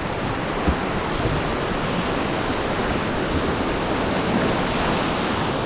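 Steady rushing of whitewater river rapids, an even roar of moving water.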